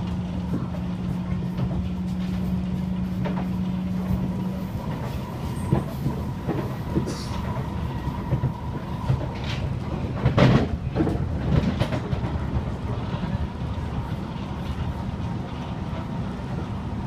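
Kawasaki Heavy Industries C151 metro train running, heard from inside the carriage: a steady rumble of wheels on rail with a low hum that stops about four seconds in. Then comes a run of sharp wheel clacks over the track, loudest about ten and a half seconds in.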